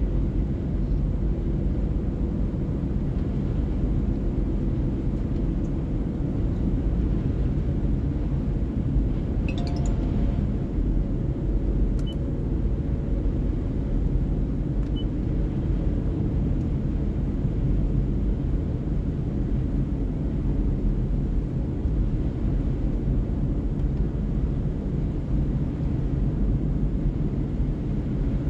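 Car driving: a steady low rumble of road and engine noise. There is a brief faint high sound about ten seconds in and a small click about two seconds later.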